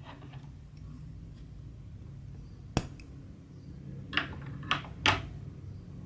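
Cross-stitch needle and silk thread working through fabric: one sharp click about three seconds in, then three quicker, softer ticks near the end, over a low steady hum.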